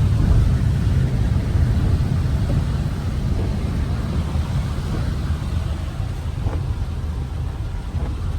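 A car driving on wet streets: a steady low rumble of road and engine noise, with a hiss of tyres on the wet road over it.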